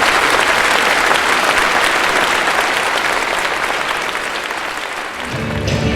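Audience applause that slowly fades, then dance music starts near the end.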